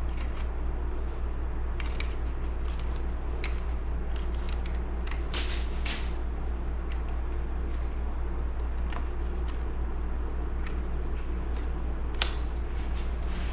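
Scattered light clicks and small knocks of tools and chainsaw parts being handled while the saw's throttle side is reassembled, the sharpest about 12 seconds in, over a steady low hum.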